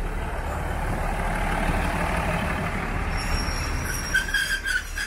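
State Railway of Thailand railcar train rolling past at close range with a steady rumble of engine and wheels. Near the end, brief high squeals and a few sharp clanks from the running gear.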